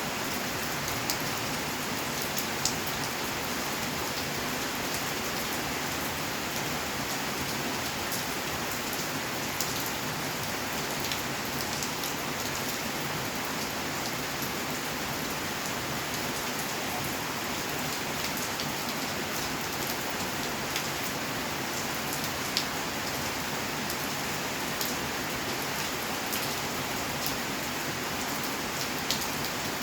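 Steady rainfall, a constant hiss with scattered individual drops ticking sharply on nearby surfaces.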